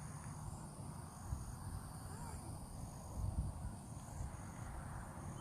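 Insects trilling: a steady high-pitched buzz with short high chirps repeating about once a second, over a low rumble.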